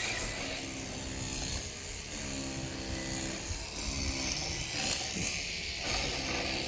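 A 1/10-scale radio-controlled car driving, its motor whining in a pitch that rises and falls several times as the throttle is worked.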